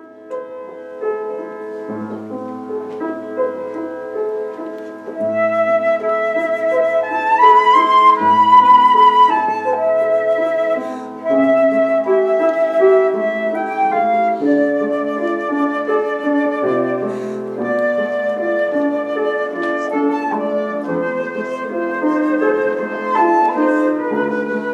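A flute playing a melody of held notes with vibrato over piano accompaniment, starting softly and growing louder after about five seconds.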